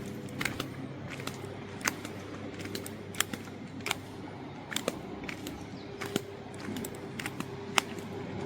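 Footsteps on stones and pebbles: irregular sharp clicks, one or two a second, over a faint steady low hum.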